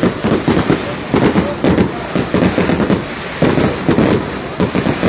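Fireworks going off in a rapid, irregular barrage of bangs and crackles, with no break.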